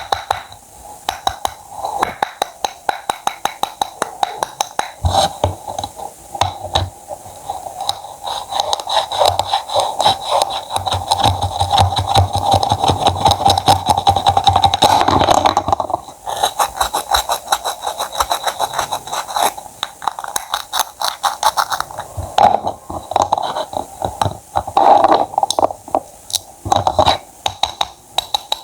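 A knife cutting fruit or vegetables on a cutting board: a long run of short, sharp chops and slicing scrapes, coming thickest in the middle.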